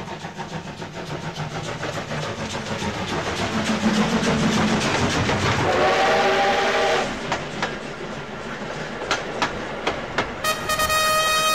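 A train running with a steady clickety-clack of wheels on rail joints, growing louder, and sounding its horn for about a second midway. Music comes in near the end.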